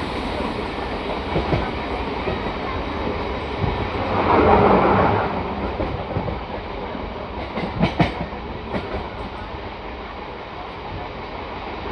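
Passenger express train running along the track: a steady rumble with clicks of the wheels over rail joints, and a louder swell lasting about a second a little after four seconds in.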